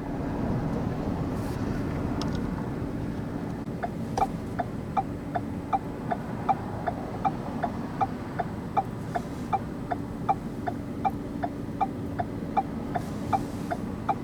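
Car's indicator relay clicking steadily, about three ticks a second, starting about four seconds in, over the steady hum of the vehicle.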